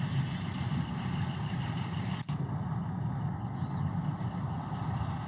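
Low, steady rumble of a meter-gauge passenger train's coaches running past on the track, with no horn, and a very brief break in the sound a little over two seconds in.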